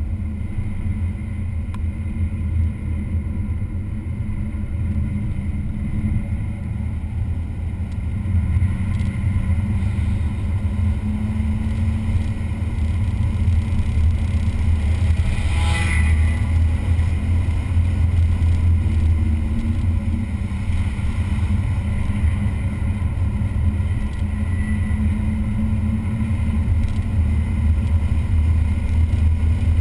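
A vehicle's engine running hard on a race circuit: a steady low drone that builds slightly about a third of the way in, with one brief sharp noise about halfway through.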